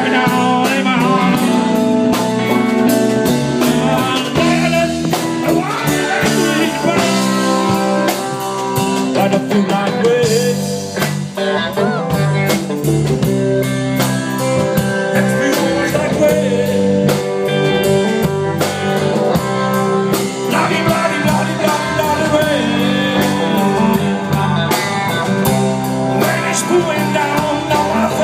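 A blues-rock band playing, with a guitar carrying bending, wavering notes over a steady bass line and drums.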